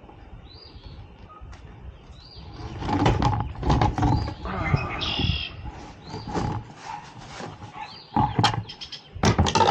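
A bird gives short rising chirps a few times. From about three seconds in, louder rustling and knocking noises cover it, loudest near the end.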